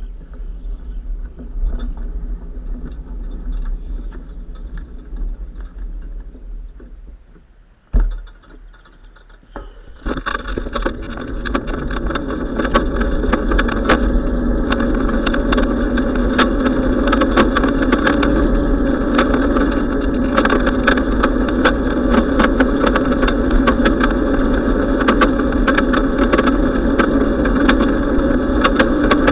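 Wind and road noise from a bicycle ride heard on the riding camera's microphone, with a constant low rumble. After a single knock about eight seconds in, it turns louder and steadier about ten seconds in, with a constant patter of small rattling ticks.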